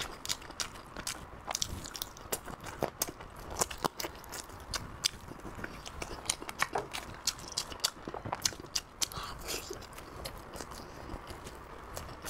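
Close-miked wet chewing and lip-smacking of fatty pork on the bone, with many sharp mouth clicks, several a second and irregular.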